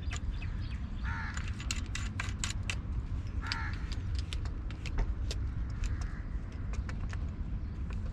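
Fishing gear being handled: a run of sharp clicks and rattles over a steady low rumble, with two short calls about a second and three and a half seconds in.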